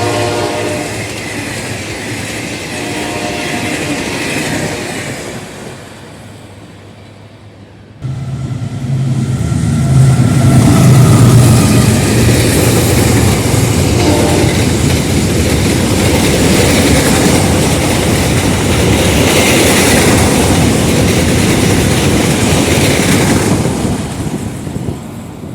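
General Electric diesel locomotive sounding its horn, fading away over the first seconds. Then a loud train passing close by, with a short horn note about halfway through.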